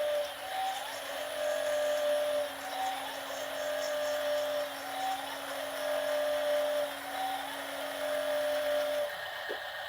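Electronic sound effects from a Double E E590 remote-control Mercedes-Benz Arocs dump truck: a two-note tone, a long lower note then a short higher one, repeating about every one and a half seconds over a steady hum and a small motor whine. It all stops about nine seconds in.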